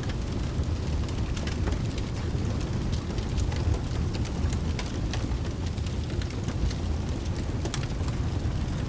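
Steady rain with a low, continuous rumble underneath, and scattered sharp crackles and pops from a wood fire in a fireplace.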